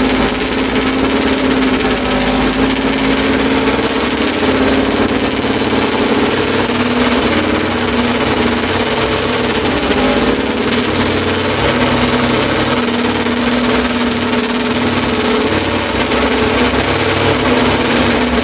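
Honda RA272's 1.5-litre V12 racing engine running steadily, a loud, even multi-cylinder note with no pauses or big changes in speed.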